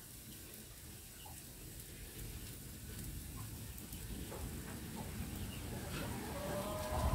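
Faint sizzle of pechay and mushrooms frying in a wok over an open wood fire, with scattered faint crackles. A brief pitched call is heard near the end.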